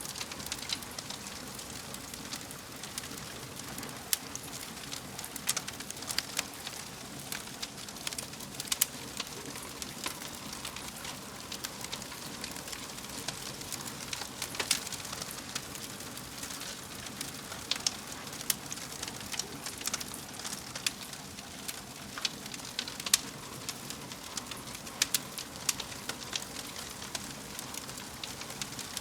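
Wood fire crackling in a fireplace: frequent small irregular pops and snaps over a steady soft hiss.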